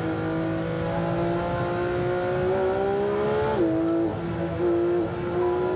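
Porsche 911 GT3 RS's naturally aspirated flat-six heard from inside the cabin under hard acceleration. Its pitch climbs steadily, drops sharply about three and a half seconds in, and then climbs again.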